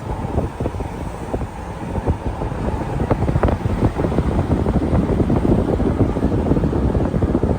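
Wind buffeting the microphone: a loud, gusty low rumble that swells a little after the first couple of seconds.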